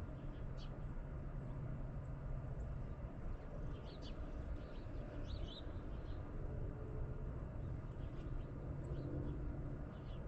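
Small birds chirping now and then, short high chirps in scattered clusters over a steady low rumble.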